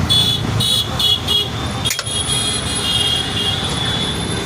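A vehicle horn sounds four or five short beeps, then a sharp click, then one long held note. A steady low traffic rumble runs underneath.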